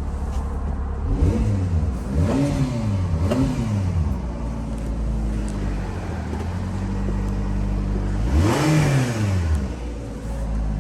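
1992 Subaru Sambar truck's supercharged four-cylinder engine idling steadily and being revved: three quick blips of the throttle a second or so apart, then a longer rev near the end that rises and falls back to idle.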